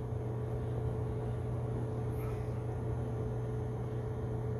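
Clothes dryer running: a steady hum of its blower with exhaust air rushing out through the wall vent.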